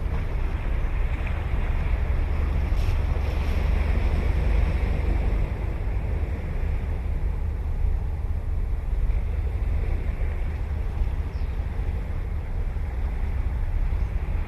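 Ocean surf breaking and washing on the beach in a steady rush, swelling a little a few seconds in. Wind buffets the microphone with a low rumble underneath.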